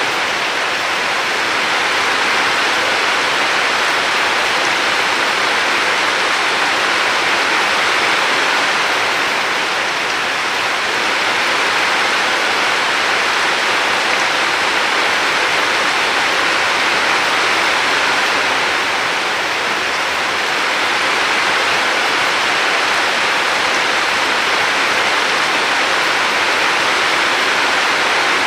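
A river's water rushing steadily in an even, unbroken hiss, swelling and easing slightly now and then.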